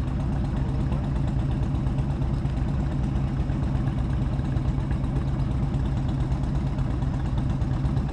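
Motorcycle engine running steadily at an even low pitch, heard from on board the bike with road noise.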